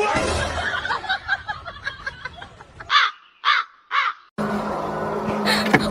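Three short, harsh caw-like animal calls about half a second apart, following a busy, noisy stretch.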